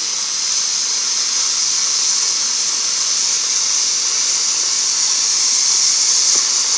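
Cone fountain firework hissing steadily as it sprays sparks: a high, even hiss that grows slightly louder.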